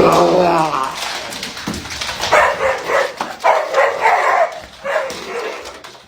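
A dog vocalizing: a loud rising call at the start, then a run of shorter pitched calls.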